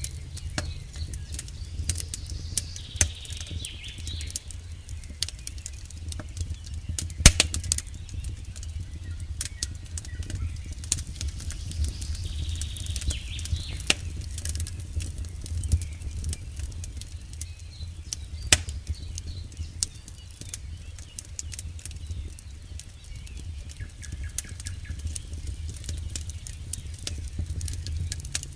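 Campfire burning: wood crackling with irregular sharp pops and snaps over a steady low rumble, one pop louder than the rest about seven seconds in.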